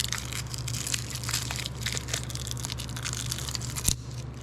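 Crinkling and rustling of plastic parts packaging being handled, with one sharp click near the end.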